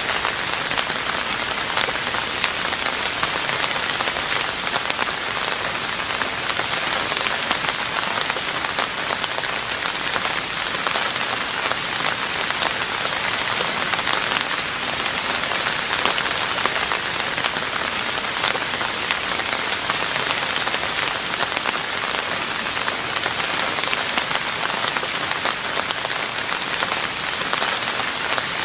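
Steady rain falling on a roof: a dense, even hiss of countless drops that holds at one level throughout.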